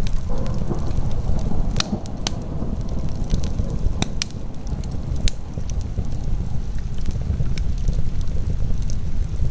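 Wood fire crackling in a fireplace, with sharp irregular pops and snaps, over a steady low rush of heavy rain.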